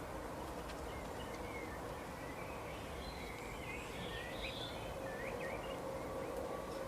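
Faint bird chirps, a scatter of short, quick rising and falling notes through the middle, over steady background noise with a low hum.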